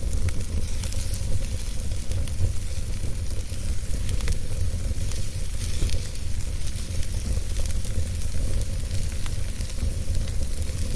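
Wood fire burning in a fireplace: a steady low rumble and hiss with many small, irregular crackles and pops from the burning logs.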